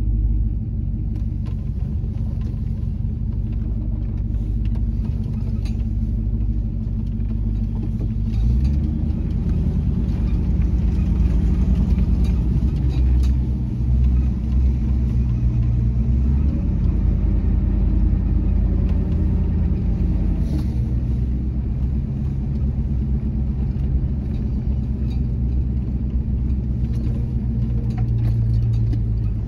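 SUV engine running as the vehicle crawls over a dirt track, heard from inside the cabin. The engine note rises under throttle about a third of the way in, drops back, rises again and settles, with occasional rattles and knocks from the cabin over the bumps.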